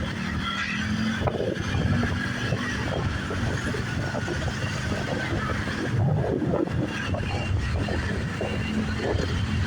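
Motorbike taxi's engine running steadily while under way, with road and traffic noise around it.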